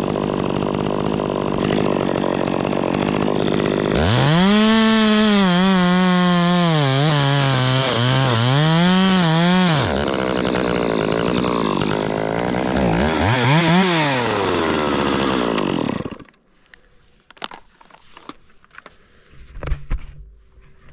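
Stihl two-stroke chainsaw running at low speed, then opened to full throttle and cutting into pine wood, its pitch sagging and recovering as the chain loads up in the cut. It eases off, revs once more, then cuts off suddenly, leaving a few faint knocks.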